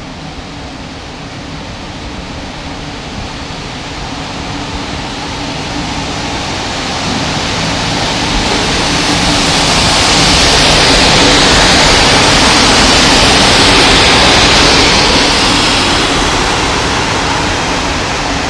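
Electric locomotive passing close along a station platform: a steady rumble and hiss that grows louder as it nears, is loudest from about ten seconds in, then eases off.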